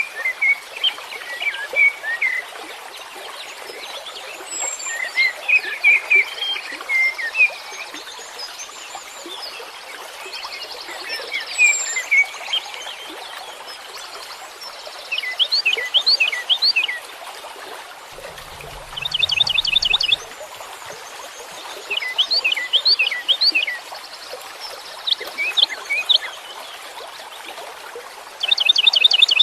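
Songbirds singing: repeated chirps and quick whistled sweeps, with bursts of fast trills, over a steady background hiss.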